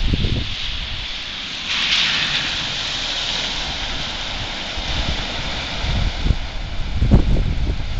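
Coastal storm noise: a steady rushing hiss of wind and surging water or rain that swells about two seconds in, with gusts buffeting the microphone near the end.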